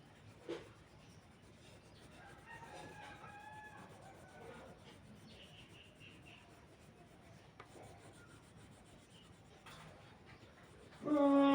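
Faint rubbing of a paintbrush on the painting surface, with a rooster crowing in the background about two seconds in. Near the end comes a short, loud call held on one pitch.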